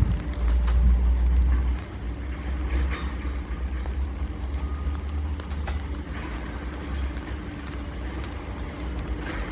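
New York City Subway L train running through the station: a low rumble, loudest for the first couple of seconds and then steady, with a few faint clicks.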